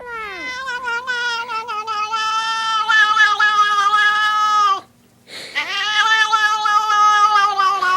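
Domestic cat giving two long, loud yowls. The first starts with a falling pitch and is then held for nearly five seconds; the second begins about half a second after the first ends.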